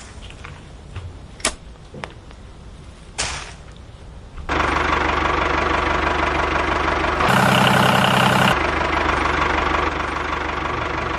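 A few light clicks, then a steady engine-like running sound cuts in suddenly about four and a half seconds in, with a louder stretch lasting about a second past the middle.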